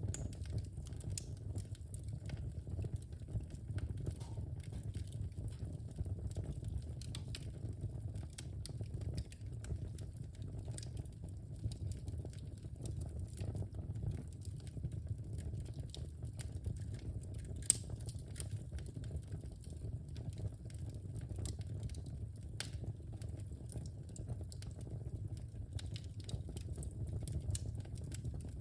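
Wood fire burning in a fireplace: a steady low rumble of the flames with scattered sharp crackles and pops from the logs, one louder pop a little past the middle.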